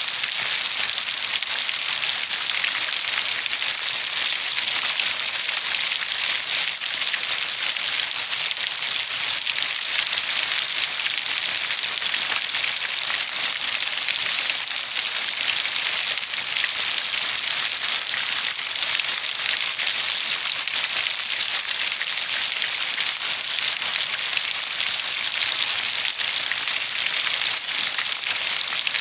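Steady heavy rain falling, an even hiss of many drops with a fine crackle.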